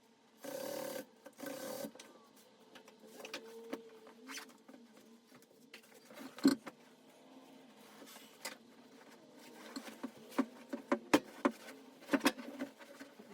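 Two short runs of an upholstery sewing machine stitching, in the first two seconds. Scattered clicks and knocks of the work being handled follow, the sharpest about halfway through and in a cluster near the end.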